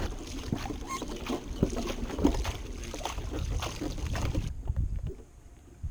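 Water lapping and splashing against the hull of a small sailboat, with wind on the microphone. It drops away sharply about four and a half seconds in.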